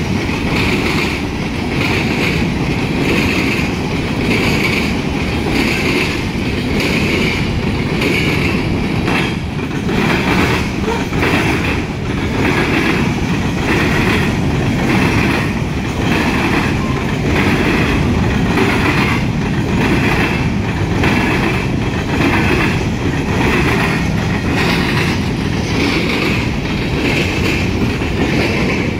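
Covered hopper freight cars rolling past on the rails: a steady rumble of steel wheels on track, with a higher-pitched ring that pulses about once a second.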